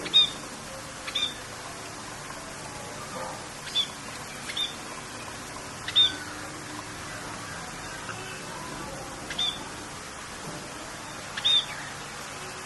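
Birds giving short, sharp chirps, about seven in a scattered series, over a steady hiss of rain.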